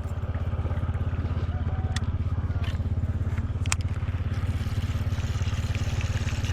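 Boat's outboard motor running steadily with a low, pulsing drone. Two sharp clicks sound over it, about two seconds in and again near four seconds.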